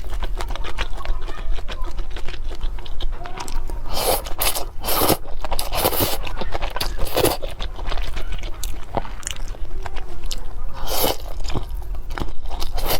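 A person eating cake close to the microphone: steady chewing with many small wet mouth clicks. Louder scraping, crunching bursts come several times between about four and seven seconds in, and once more near eleven seconds.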